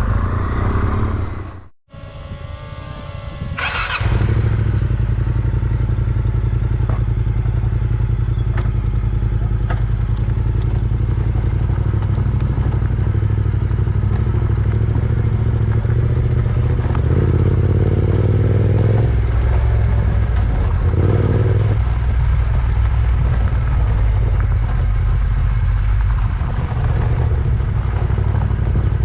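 Yamaha Ténéré 700's parallel-twin engine running as the bike rides on, a steady low drone with a sharp dropout about two seconds in.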